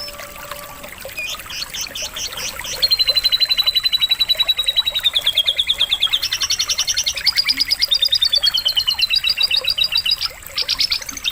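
Canary singing long, rapid trills of high repeated notes, stepping between pitches. The song starts in short phrases about a second and a half in and runs continuously from about three seconds, with a brief break near the end, over a faint trickle of running water.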